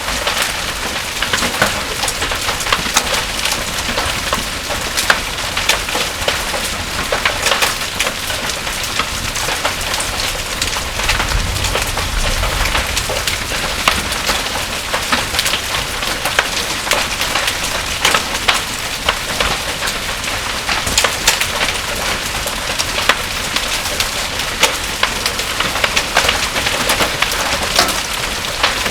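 Heavy thunderstorm rain pouring steadily, with many sharp ticks of drops and hailstones striking hard surfaces. A brief low rumble of thunder comes about eleven seconds in.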